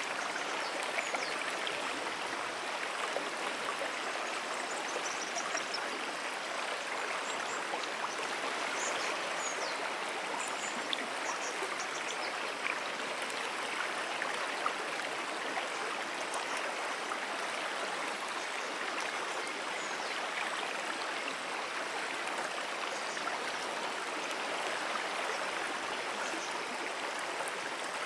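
A brook running over a shallow streambed: a steady, even rushing and burbling of water that does not change.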